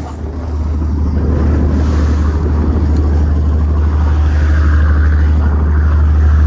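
Motorboat engine running steadily under way, with a strong low drone and wind buffeting the microphone. It cuts in suddenly and grows a little louder over the first second or two.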